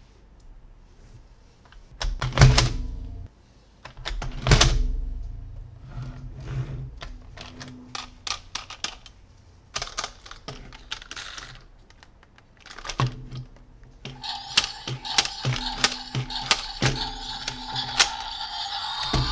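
Plastic toy pieces being handled and set down: a run of clicks and knocks, with two louder knocks about two and four and a half seconds in. From about fourteen seconds in a steady tone sounds under rapid clicking, and a second, rising tone joins near the end.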